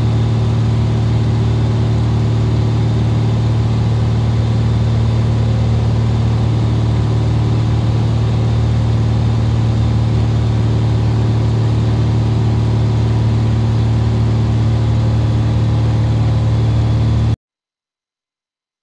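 Cessna RG's piston engine and propeller droning steadily, heard inside the cabin, with a strong low hum and no change in pitch. The sound cuts off abruptly to silence near the end.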